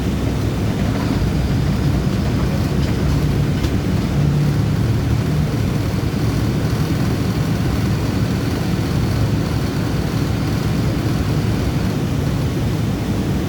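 Steady low rumble of a city bus on the move, its engine and tyres heard from inside the cab, with a faint high whine over it.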